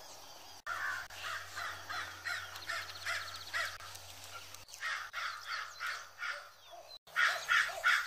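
Birds calling: a run of short calls repeating about three times a second, with a brief fast, high trill about three seconds in. The sound breaks off suddenly for an instant a few times.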